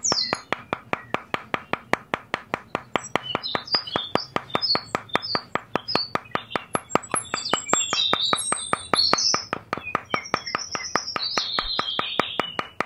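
Birds chirping in short high calls, more often in the second half, over a fast, even clicking of about six clicks a second.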